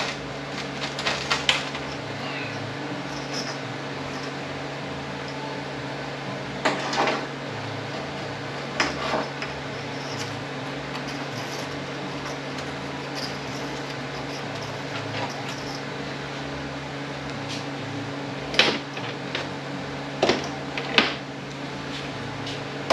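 Hand tools and metal transmission parts clinking and knocking now and then, a few sharper knocks among lighter clicks, over a steady low hum.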